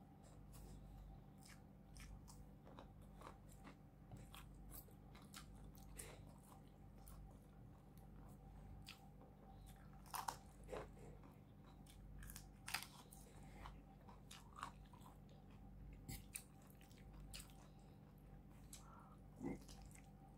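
Faint, close-up mouth sounds of chewing and biting into a spiced shrimp dish eaten by hand: soft wet clicks and small crunches, with a few louder bites around the middle, over a faint steady hum.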